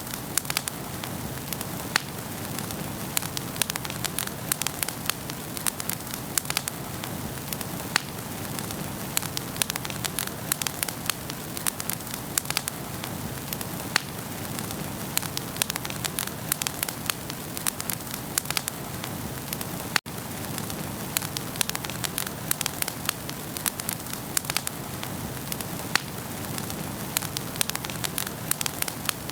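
Wood fire burning in a fireplace: a steady hiss of flames with frequent sharp crackles and pops from the logs. Sound cuts out for an instant about two-thirds of the way through.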